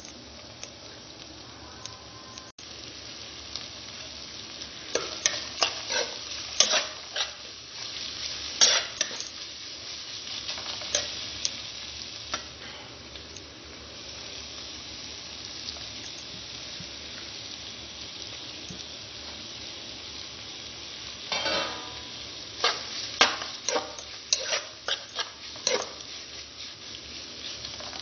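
Onions frying in a metal pot with a steady sizzle, and a metal ladle scraping and knocking against the pot in two bouts of stirring.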